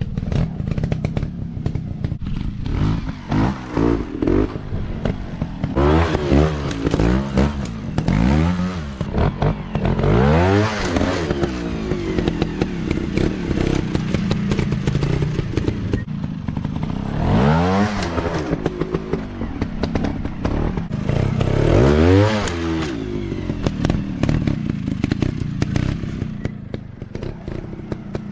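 Motocross bike engines revving hard in repeated rising sweeps, the strongest about ten, seventeen and twenty-two seconds in, over a steady clatter of clicks and knocks.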